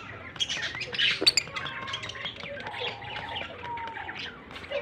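A pair of lovebirds chattering: a rapid, continuous run of high-pitched chirps and squawks, with a few louder squawks about a second in and some short gliding calls later.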